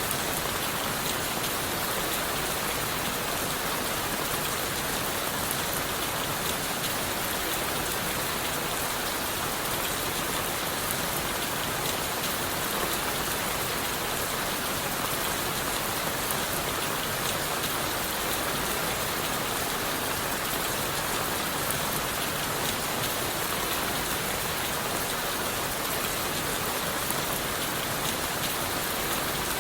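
Steady rain falling on leaves, wood and the forest floor, an even hiss with fine, closely packed drop ticks and no change in intensity.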